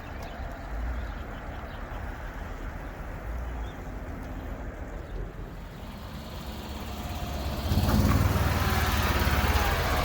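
Car engine running at low speed, a steady low rumble that grows louder about eight seconds in as the car draws close.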